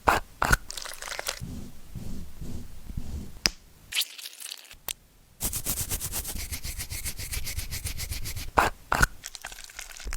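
Dog chewing crunchy food close up: sharp cracks and crunches, a short pause, then a fast run of crunching strokes.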